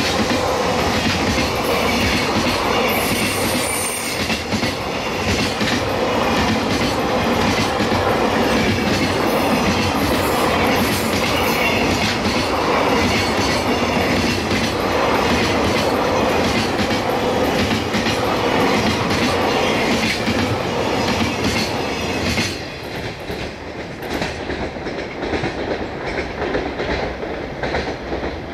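A freight train of container flat wagons rolling past, its wheels clattering over the rail joints in a steady clickety-clack with a thin wheel squeal. About 22 seconds in the last wagon passes and the sound drops to a fading rumble.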